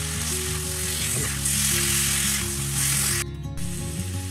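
Chicken pieces and potatoes in masala sizzling as they fry in oil in a wok. The sizzle gets louder in the middle and cuts out briefly a little past three seconds in, over background music of held notes.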